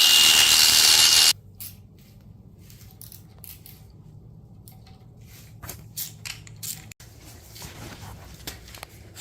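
A loud, steady rushing noise with a thin high whine cuts off abruptly about a second in. It is followed by scattered light clicks and taps of tools and parts being handled during an engine build.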